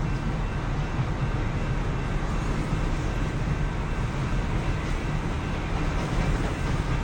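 Steady, even vehicle rumble, strongest in the low end, with no change in level.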